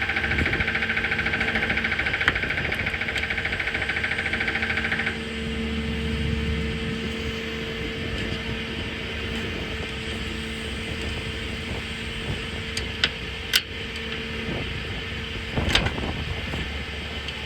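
Lincoln Electric Ranger 330MPX engine-driven welder running: a loud rattling buzz for about the first five seconds, then steady running. A few sharp clicks come near the end.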